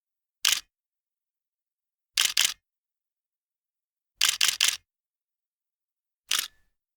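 Camera shutter clicks in quick groups: one, then two, then three, then one more, with dead silence between.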